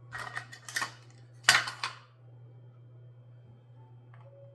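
Kitchen clatter of utensils and baking gear being handled on a counter: three short clattering knocks in the first two seconds, then quiet with a steady low hum.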